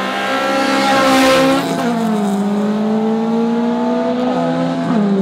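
Honda Civic engines revving hard as the cars accelerate away in a street race. The engine pitch climbs, then drops sharply at an upshift about a second and a half in and again near the end.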